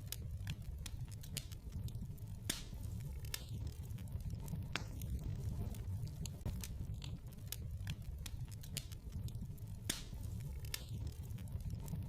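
Wood fire burning in a fireplace: irregular sharp crackles and pops, a few each second, over a low steady rumble of the flames.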